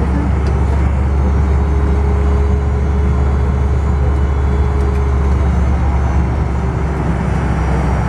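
Steady rumble of a Fokker 100's Rolls-Royce Tay jet engines and airframe, heard from inside the passenger cabin on the ground after landing.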